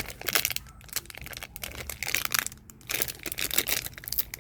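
Foil wrapper of a baseball card pack being torn open and crinkled by hand, an irregular run of crackling and tearing.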